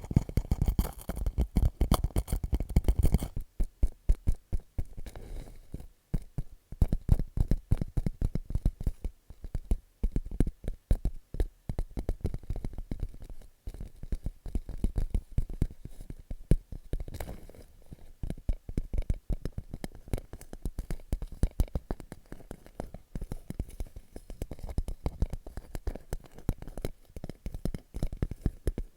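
Fingertips tapping rapidly on a clear plastic pouch, a dense crackle of quick taps with some scratching of the plastic, in uneven bursts. The popping patter sounds like popcorn being made.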